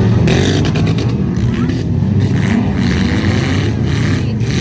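Derby trucks' engines running and revving loudly together, with a few sharp bangs, most of them in the first second and one near the end.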